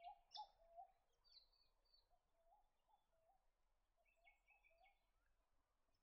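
Faint wild bird calls: scattered short chirps and upward-slurred notes, in a cluster in the first two seconds and again about four seconds in.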